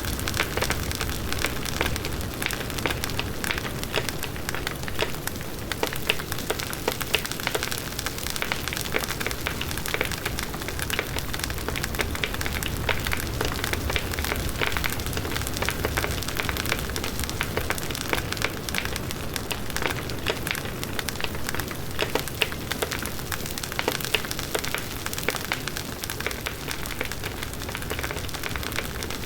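Large wood bonfire burning steadily, with dense crackling and popping from the burning wood over the rush of the flames.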